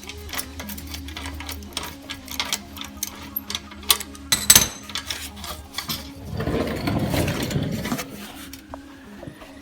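Hand ratchet wrench clicking rapidly as the bolts holding an exhaust brace are undone under a car. There is a sharp metal knock about four and a half seconds in, then a couple of seconds of scraping and rustling.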